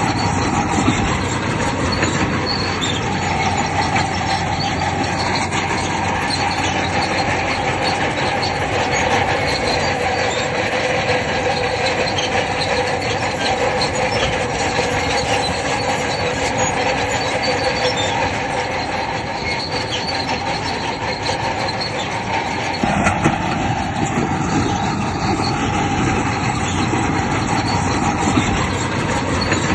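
Bulldozer working, its steel crawler tracks giving a steady squeal over the running engine, with a change in the low engine noise about three-quarters of the way through.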